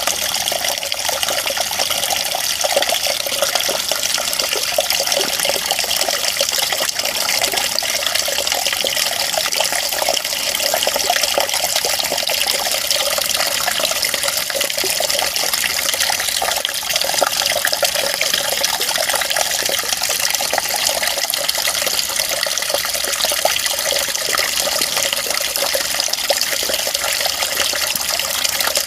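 Running water making a steady, unbroken rush, high and hissy with no low rumble.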